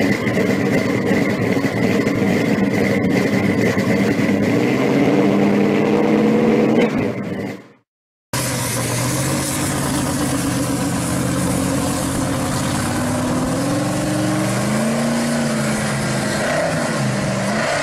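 Supercharged engine of a 1969 Camaro Z/28 pro street car running, its pitch climbing after about five seconds. The sound fades out and stops briefly, then the engine returns as the car drives off, the revs rising and falling several times.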